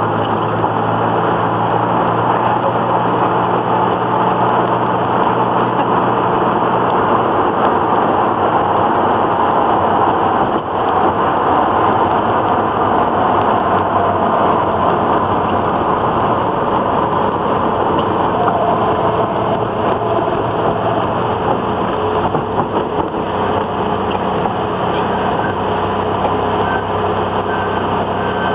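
Datsun Z car running steadily on the road, its engine and road noise heard from inside the cabin.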